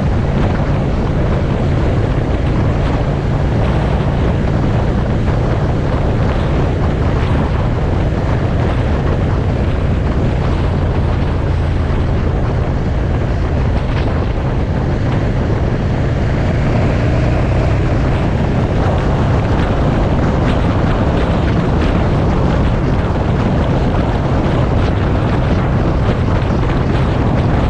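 Motorcycle engine running steadily at road speed, with heavy wind noise buffeting the microphone.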